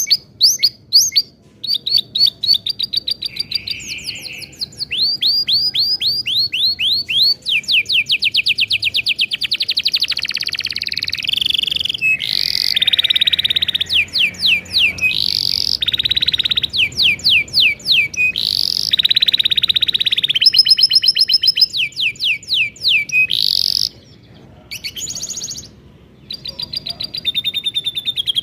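Domestic canary singing a long, continuous song of rapid trills and fast repeated syllable phrases, high-pitched, with a short lull near the end before the trilling picks up again.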